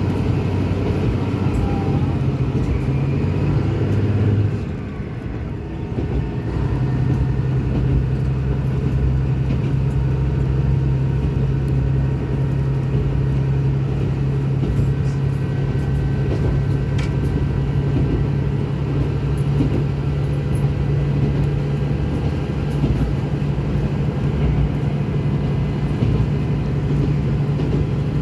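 Diesel railcar running, heard from on board: a steady low engine drone with rail noise. It dips briefly and changes pitch about five seconds in, then runs on evenly.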